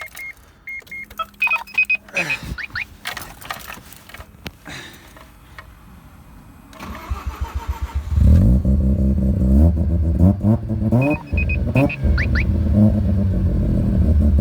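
Electronic beeps and clicks, then the bridgeported two-rotor 13B rotary engine of a Mazda RX-7 FD3S cranks briefly and catches first try about eight seconds in. It settles into a loud, lumpy idle through the open remote-controlled exhaust muffler, with a short rev blip near the end.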